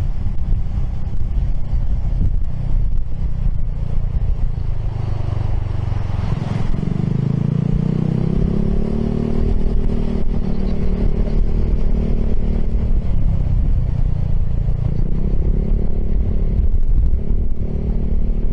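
Piaggio X10 scooter's engine running through an Akrapovic exhaust while riding, with wind on the microphone; the engine note picks up about six seconds in and then holds steady.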